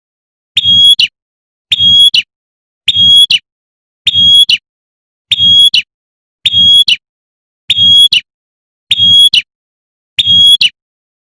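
Female prenjak (prinia) giving its 'tembakan' call, a short high call repeated nine times at an even pace of about one every 1.2 seconds, with silence between the calls.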